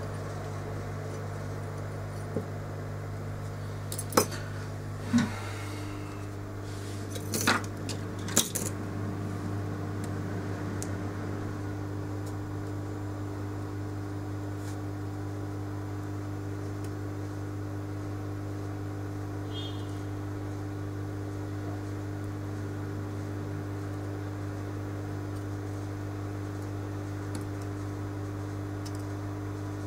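Steady electrical hum from bench equipment, with a second steadier tone joining about five seconds in. Several sharp metallic clicks and clinks, like small tools being handled, fall between about two and nine seconds in.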